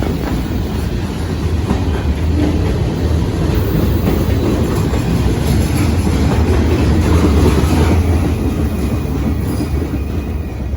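A train rolling past, a steady loud rumble of steel wheels on the rails.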